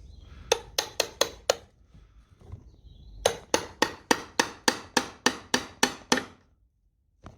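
Hammer tapping on the stuck rocker cover of an International 584 tractor engine to break its gasket seal: a quick run of five taps about half a second in, then a steady run of about a dozen taps, roughly four a second, from about three seconds in.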